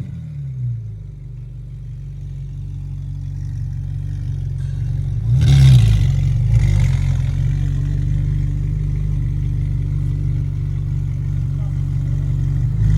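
Ferrari 458 Italia's 4.5-litre V8 running through an Emil aftermarket exhaust, settling to a steady idle after a rev. The idle grows slowly louder, with one short, louder blip about five and a half seconds in.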